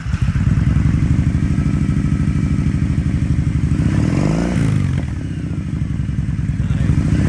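Kawasaki Vaquero's 1700cc fuel-injected, liquid-cooled V-twin running through a performance exhaust with a steady pulsing idle, just after starting. The throttle is blipped once about four seconds in, the revs rising and falling back, and again right at the end.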